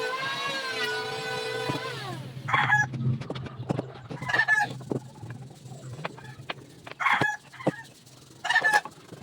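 A power tool's electric motor whines steadily, then spins down about two seconds in. After it stops, a chicken calls four times in short clucking bursts.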